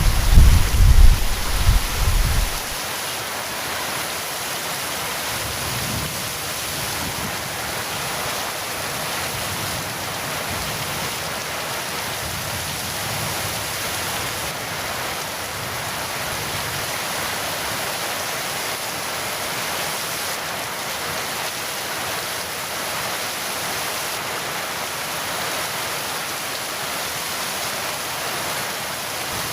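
Heavy rain falling steadily, opening with the tail end of a loud, low thunder rumble that stops abruptly about three seconds in.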